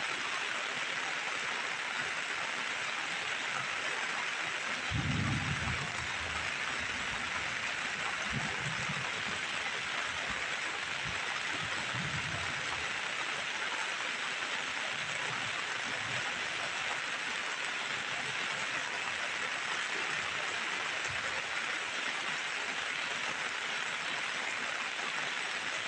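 Steady rain falling on wet ground and surfaces, a constant hiss of drops. A few short low rumbles break in, the loudest about five seconds in and weaker ones near eight and twelve seconds.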